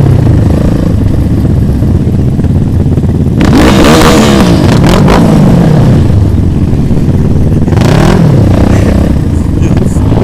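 Motorcycle engines running under a steady low rumble, revving up and dropping back: a burst of revs about three and a half seconds in and another around eight seconds.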